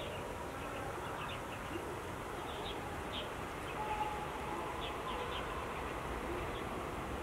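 Small birds chirping in short scattered bursts over a steady low rumble.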